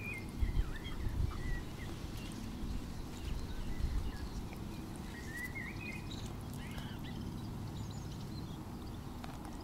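Small birds chirping in short bursts, near the start and again about five seconds in, over a low steady wind rumble, with a few soft handling bumps in the first few seconds as a caught bream is held and unhooked.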